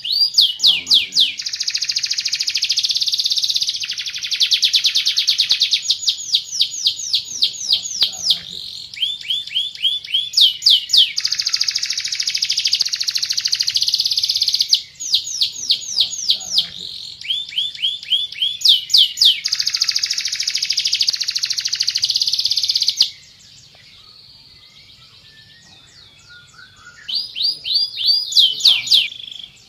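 Domestic canary singing a long, loud song of rapid trills and fast runs of repeated sweeping notes. It breaks off about three quarters of the way through, then starts again near the end.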